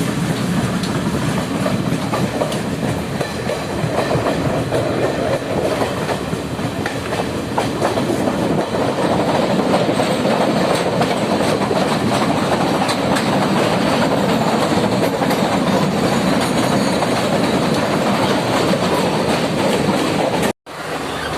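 Train running along the track, its wheels clattering over the rail joints in a steady, noisy rumble. The sound cuts out abruptly for a moment near the end.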